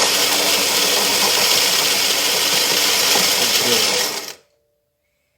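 Philips 5400 bean-to-cup espresso machine running: a loud, steady mechanical noise that cuts off suddenly about four seconds in.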